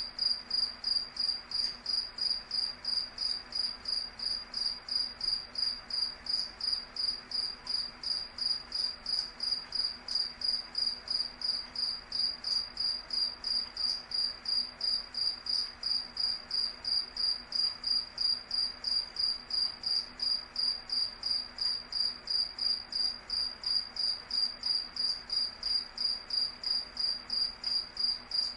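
Cricket chirping steadily in a regular, high-pitched pulse, about two to three chirps a second.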